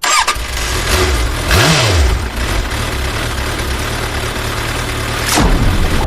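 A vehicle engine running with a rough, noisy rumble, its pitch rising and falling once about a second and a half in.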